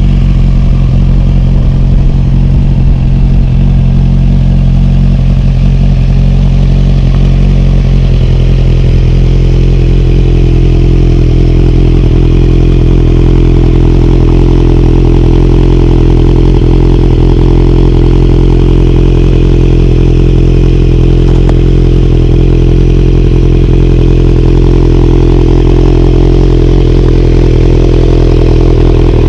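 Kawasaki Z900's inline-four engine idling steadily through a Delkevic full exhaust system while it warms up after a cold start; the exhaust note changes slightly about eight seconds in, with no revving.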